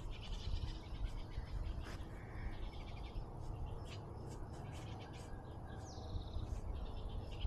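Small birds chirping and calling in short repeated notes, with one higher call falling in pitch about six seconds in, over a faint low rumble.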